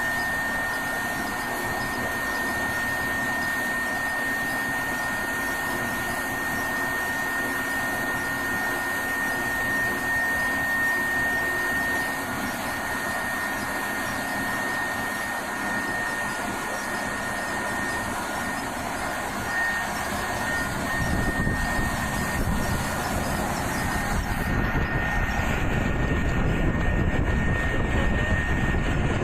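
Steady machine running noise with a thin high whine over it; from about 21 seconds in a lower rumble builds and the noise grows a little louder.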